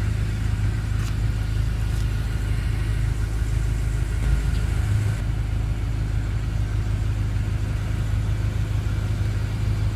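A 2014 BMW M5's twin-turbocharged 4.4-litre V8 idling steadily with a low hum.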